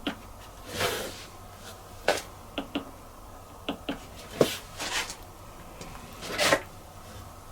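Scattered light clicks and short rustling swishes from hands working a Bosch dishwasher's control panel, stepping from one wash program to the next.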